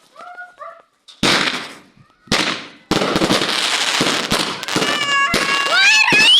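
Fireworks going off: two loud bangs a second apart, then a dense run of crackling, with a whistling firework climbing in pitch near the end.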